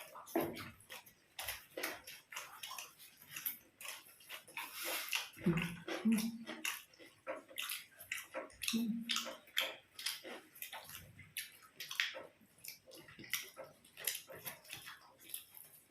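People eating by hand: wet chewing and lip-smacking, a quick irregular run of small clicks and crackles, with two brief low hums near the middle.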